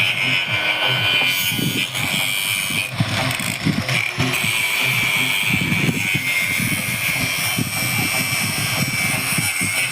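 A machine's engine running steadily, with a continuous high whine over an uneven low chugging.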